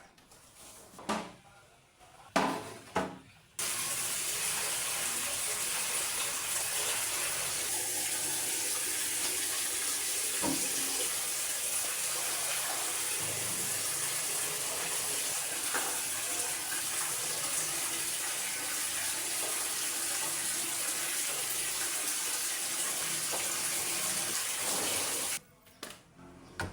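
A few light knocks and clatters, then tap water running steadily into a sink, starting abruptly a few seconds in and stopping abruptly near the end.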